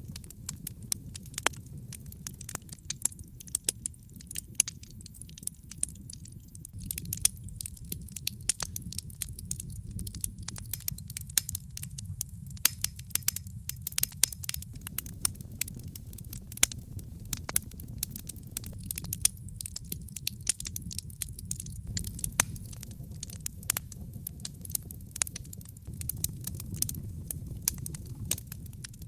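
Wood fire crackling: many sharp snaps and pops, several a second, over a steady low rumble.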